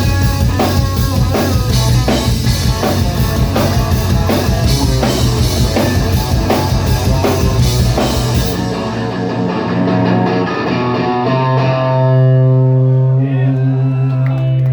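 Live rock band playing, with a drum kit and guitars. About eight seconds in the drums stop and a held chord is left ringing, the end of a song.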